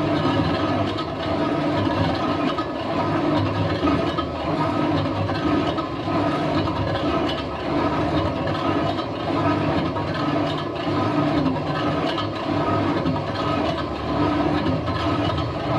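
Metal lathe running with a truck wheel rim mounted for turning, a steady mechanical drone with several held tones.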